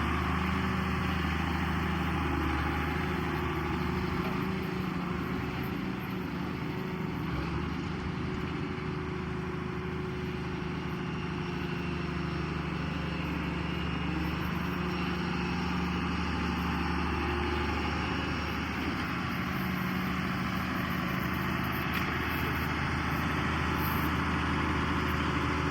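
Case 2294 tractor's six-cylinder diesel engine idling steadily.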